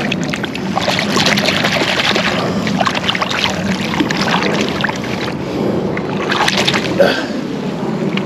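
Steady rushing and splashing of moving water, with irregular crackling splashes and a sharper splash about seven seconds in.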